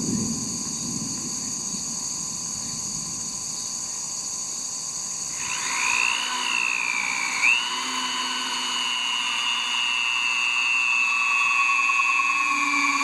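An electric power tool's motor whines from about five seconds in, its pitch rising and dipping as it speeds up and slows, over a steady high hiss.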